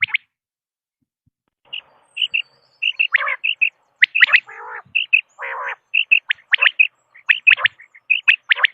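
Common quail calling: short high notes in quick groups, with a few lower, harsher calls mixed in. The calls begin after a short pause.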